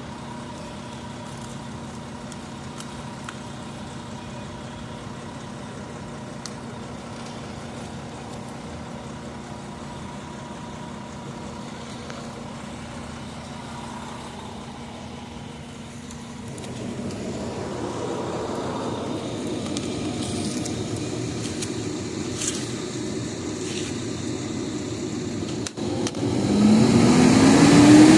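An engine running steadily at first. It grows louder from about halfway through, then revs up with a climbing pitch near the end.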